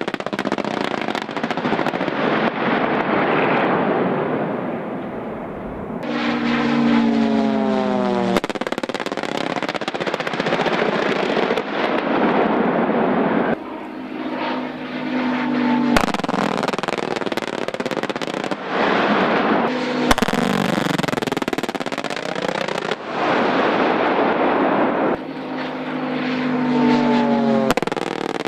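Live-fire exercise sounds: stretches of rough, crackling gunfire and impact noise, with military jet aircraft passing three times, their engine tone falling in pitch as each goes by. The passes start and stop abruptly, and single sharp cracks stand out near the middle.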